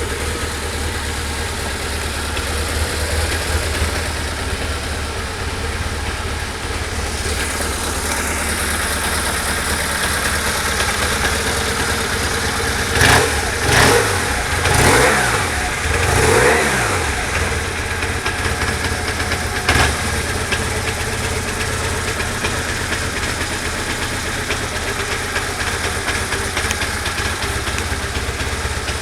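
BMW R1150RT's flat-twin boxer engine idling steadily, with four quick blips of the throttle about halfway through, each rising and falling back to idle.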